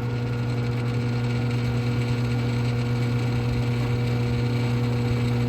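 Steady low electric hum of a running shop machine, even and unchanging throughout.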